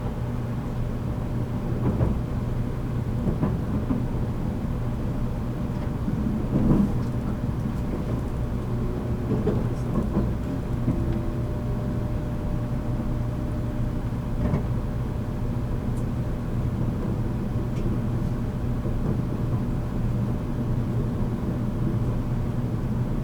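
Running sound inside a JR Kyushu 783 series electric train, heard from the motor car MoHa 783-13: a steady rumble of wheels and traction motors with a constant low hum. A few short knocks come through now and then as the wheels pass over rail joints.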